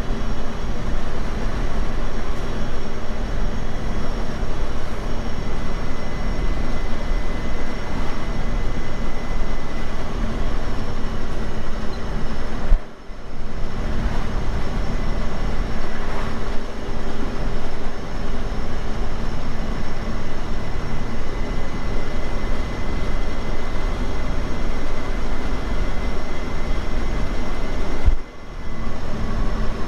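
Steady engine and road noise of a semi truck heard from inside the cab while driving, with faint steady whines over it. The sound drops out briefly twice, about 13 and 28 seconds in.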